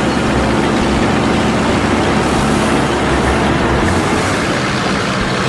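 Vehicle engines running steadily: a dense, even rumble of motor and road noise.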